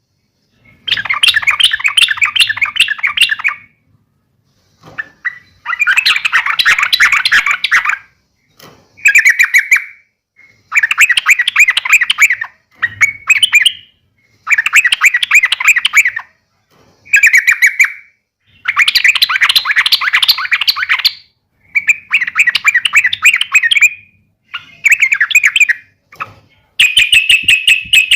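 Yellow-vented bulbul (trucukan) giving its agitated, fighting 'uplik' call: repeated bursts of rapid chattering notes, each burst about one to three seconds long, with short pauses between.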